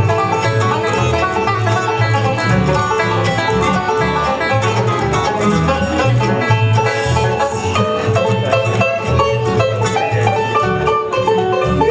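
Bluegrass band with banjo, guitar and bass playing an instrumental break: fast picked notes over a steady bass beat.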